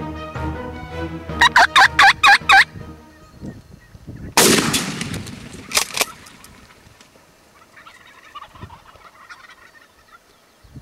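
Wild turkey gobbling, a fast run of about five notes, then about two seconds later one loud gunshot that rings out, followed a second and a half later by a single sharp crack. The shot is the hunter firing at the tom that was called in.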